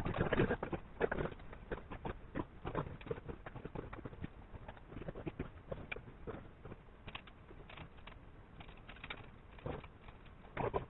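Irregular light knocks and clicks, as of tools and metal parts being handled, busiest in the first second and again near the end.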